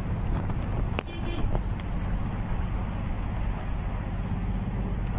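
Steady low rumble of a car engine running, with wind noise on the microphone and a single click about a second in.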